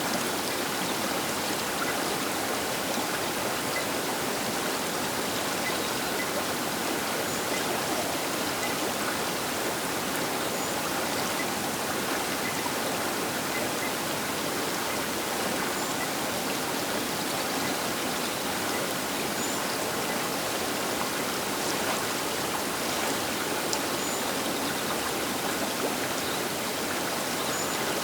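The Baker River flowing past its bank: a steady, even rush of moving water.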